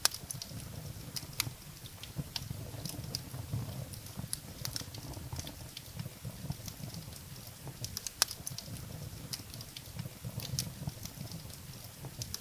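Firewood burning in a fireplace: a low steady rumble of flames with frequent sharp crackles and pops, a few louder pops standing out, one about eight seconds in.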